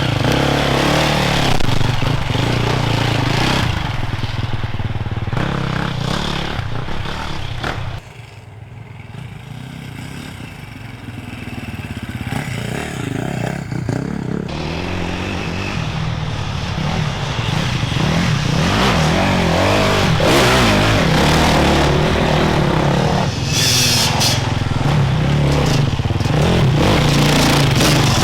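Enduro motorcycles riding off-road, engines revving up and down as they pass. The engine noise drops suddenly about eight seconds in, then builds again as another bike approaches and stays loud.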